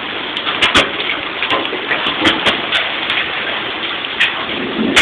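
Hailstorm: a steady hiss of heavy rain with large hailstones striking hard surfaces in irregular sharp knocks, about ten of them.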